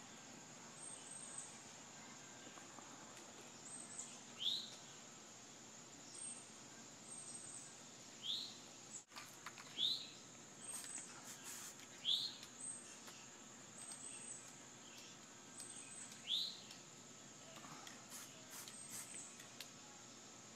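A bird calling with a short upward-sliding chirp every few seconds, five times in all, over a faint steady hiss.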